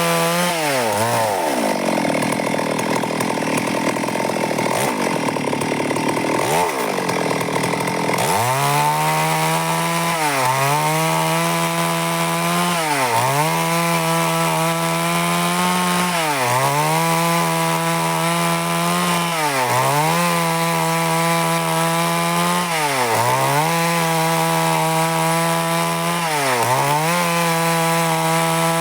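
Stihl MS 382 two-stroke chainsaw running, high and unsteady for the first eight seconds or so. After that the engine note settles lower and, about every three seconds, dips sharply before climbing back.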